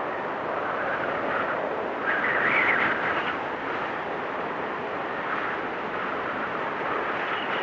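Blizzard wind blowing steadily, rising into a stronger gust about two seconds in.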